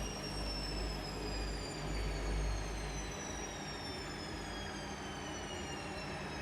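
Washing machine spinning down at the end of its spin: the motor's high whine falls steadily in pitch, and the low rumble of the drum drops away about three seconds in.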